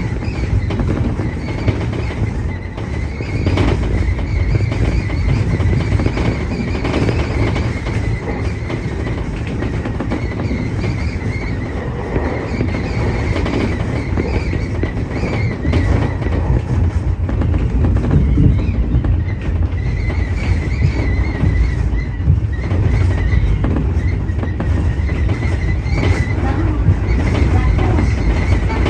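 Tobu 30000 series electric train running on the line, a steady rumble of wheels on rails with a wavering high tone throughout, heard from inside the leading car.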